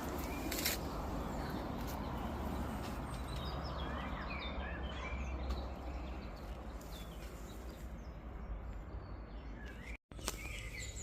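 Small birds chirping over a steady outdoor hiss and low rumble, the chirps clustering in the middle and again near the end. The sound cuts out for an instant shortly before the end.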